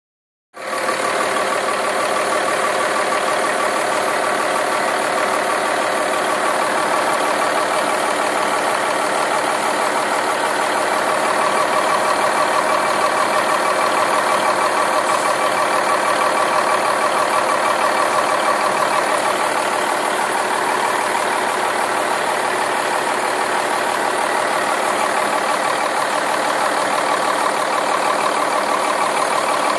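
Caterpillar 3406E inline-six diesel engine running steadily, freshly tuned with its valves, injectors and jake brake adjusted.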